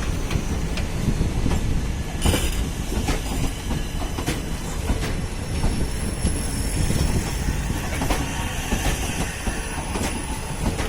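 Passenger train coaches rolling past on departure: a steady low rumble with wheels clicking over rail joints, and a faint thin wheel squeal in the second half.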